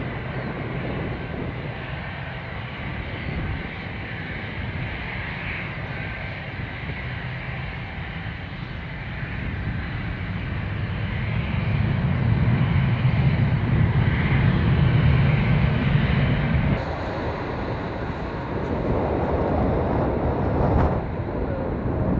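Airbus A310 airliner's jet engines rumbling on a landing approach in a strong crosswind. The sound grows louder about halfway through and drops off suddenly a few seconds later.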